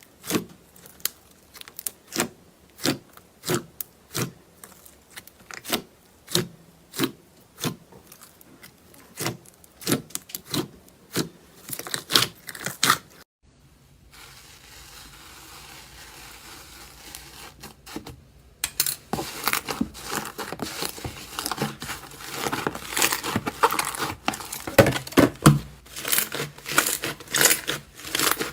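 Slime being squeezed and poked by hand: a run of sharp pops at about one or two a second, then, after a brief quieter stretch, a dense crackling and crinkling from the slime.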